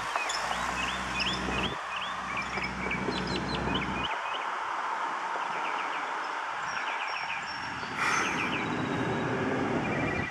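Small birds chirping again and again in quick short notes, over the low steady hum of a vehicle engine for the first few seconds and a broader traffic rumble later. A brief rush of noise comes about eight seconds in.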